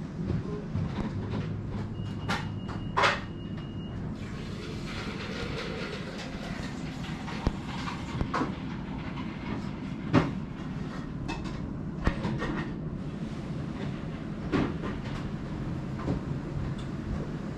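Dishes and tableware clinking and knocking now and then over a steady low hum.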